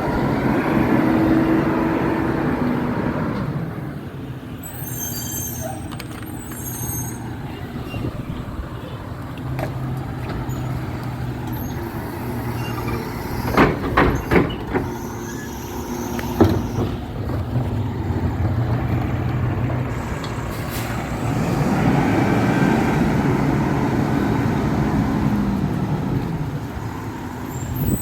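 Garbage truck engine running, swelling louder twice. A cluster of sharp metallic clanks comes about halfway through, and there are brief high squeaks about five seconds in.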